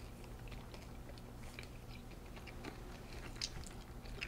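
A person chewing a Skittles candy: faint, scattered small clicks of the chewy candy in the mouth, over a low steady hum.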